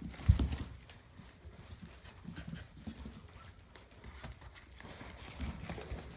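Maltese puppies moving about: a thump about a third of a second in, then scattered light knocks and taps.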